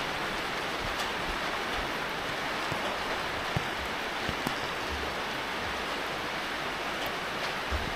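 Steady rain falling, an even hiss, with a few faint knocks of drops in the middle.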